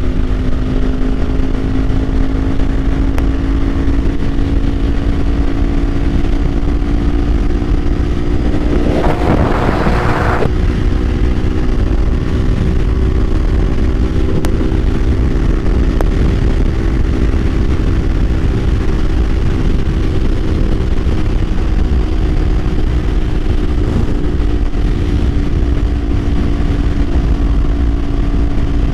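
Kawasaki Ninja 500's parallel-twin engine running at a steady cruising speed, its pitch nearly constant, under heavy wind rumble. A brief hissing rush about nine seconds in.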